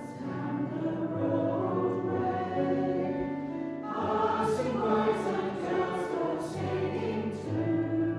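Mixed community choir singing in harmony with piano accompaniment, with low held notes beneath the voices. Crisp, sibilant consonants are sung together several times in the middle of the phrase.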